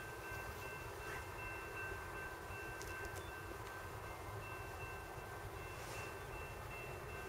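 Distant CSX freight train approaching with a low, steady rumble. A thin, steady high-pitched tone is held over it and stops near the end.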